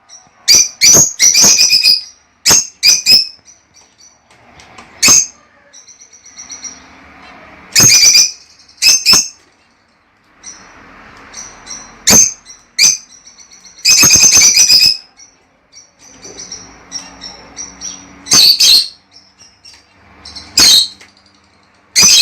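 Lovebirds calling: loud, shrill chirps and squawks at irregular intervals, some in quick runs, with a longer burst of calls about fourteen seconds in.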